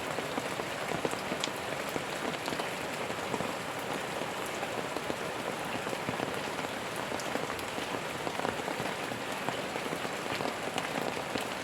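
Steady rain falling, with many small drop impacts pattering on a hard surface; no thunder.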